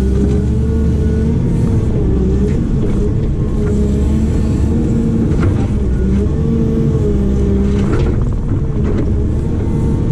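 Diesel engine of a heavy digging machine running steadily under changing load, its pitch wavering with a whine, with a few sharp knocks partway through.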